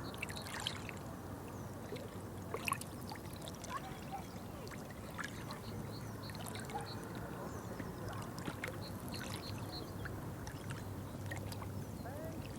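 Water trickling and lapping steadily, with many small drips and clicks scattered throughout.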